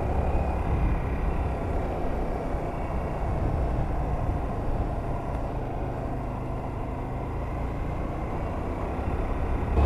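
Honda Varadero 125's small V-twin engine running steadily as the motorcycle rides along, mixed with a steady low rush of wind and road noise.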